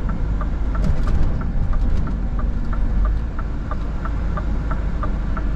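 Scania R 450 truck, its 13-litre six-cylinder diesel rumbling steadily in the cab while cruising, with a regular light tick about three times a second.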